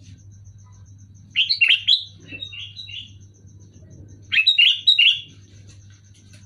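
Sooty-headed bulbul (kutilang) singing: two short phrases of quick, bright chirping notes, the first about a second and a half in and the second about four seconds in.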